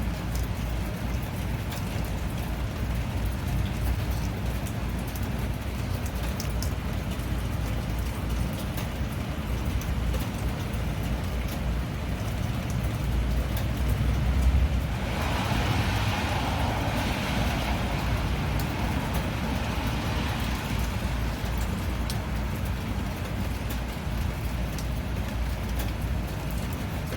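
Steady rain, with scattered drops ticking over a low, steady rumble. About halfway through, a louder hiss swells up for several seconds and then fades back.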